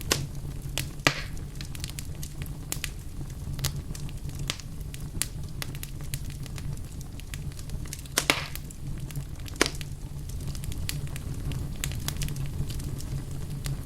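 Wood fire in a fireplace crackling, with a steady low rumble of the burning logs under irregular small snaps and a few louder pops, about a second in and again around eight seconds.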